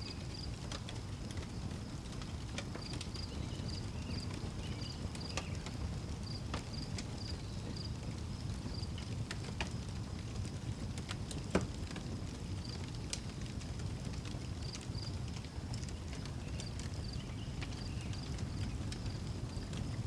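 Outdoor wood fire crackling with scattered pops, one sharper pop about halfway through, over a low steady rumble. Crickets chirp in short pulsed runs throughout.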